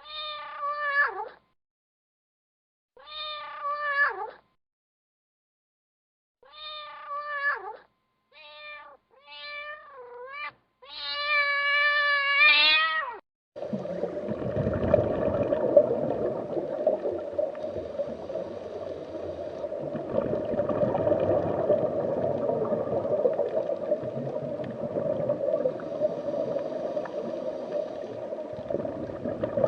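An animal giving six separate pitched calls, each about a second long, the last longer and wavering. About halfway through, a steady rushing noise takes over and carries on.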